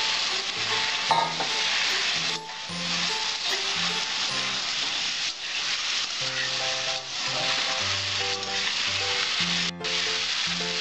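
Taro stolons and small shrimp sizzling steadily in a metal kadai while being stirred and tossed with a metal spatula.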